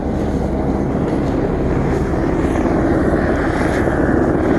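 Helicopter flying low overhead: its rotor blades and engine make a steady chopping drone, growing slightly louder, with what sounds like a weird sound to the blades.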